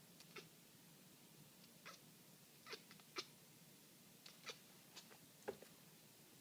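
Domestic cat excited by a laser pointer dot, making a string of about ten short, sharp chirps and clicks at irregular intervals.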